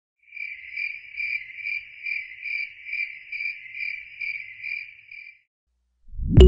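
Cricket chirping: a steady run of even, high-pitched chirps, about two a second, that stops about five seconds in.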